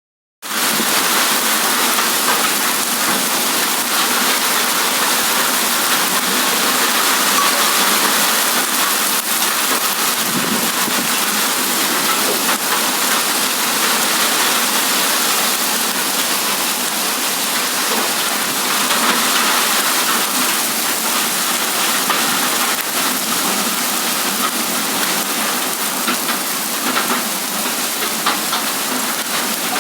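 Heavy rain in a windstorm, a loud steady hiss of downpour that barely changes throughout.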